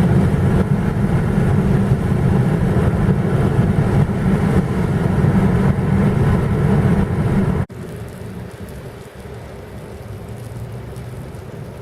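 Heavy rain on a car with the vehicle's running noise, loud and steady, cutting off abruptly about eight seconds in to a quieter, steady car noise with lighter rain.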